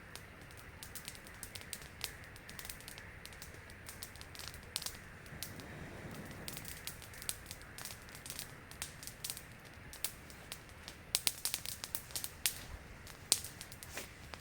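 Campfire crackling, with irregular sharp pops and snaps that come thickest about two-thirds of the way through, over a steady low hiss.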